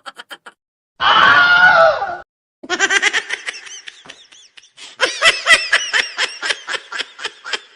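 Meme sound-effect clips played back to back: a loud yell lasting about a second, then two bursts of rapid, high-pitched laughter, the second one faster.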